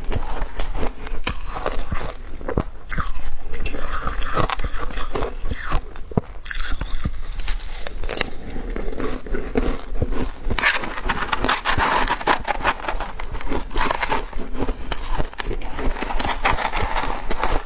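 Ice being bitten and chewed, a steady run of crunching and crackling.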